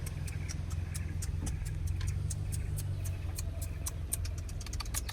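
Car engine idling as a steady low hum, with rapid, irregular sharp ticking over it that grows denser near the end.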